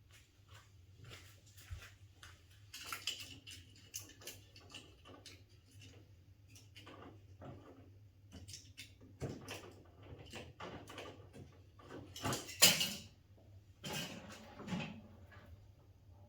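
Scattered small knocks and clicks of handling, with one sharp crack about twelve and a half seconds in, the loudest sound, followed by a short cluster of knocks.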